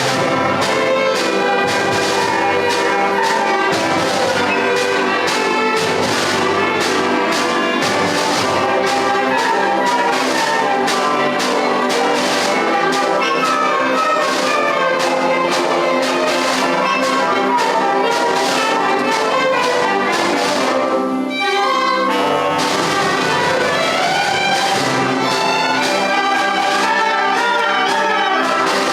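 A primary-school concert band playing, with brass to the fore over a steady beat. There is a short break about 21 seconds in, then the band plays on.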